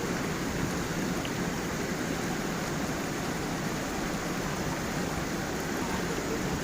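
Small waterfall and forest stream: water flowing and tumbling over stones in a steady, even rush.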